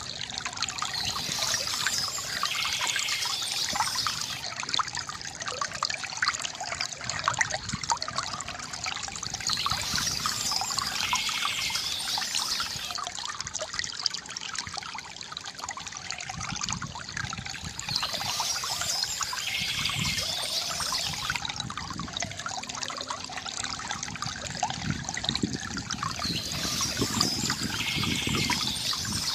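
Water trickling and splashing steadily from a bamboo fountain, with birds chirping in high bursts that recur about every eight to nine seconds.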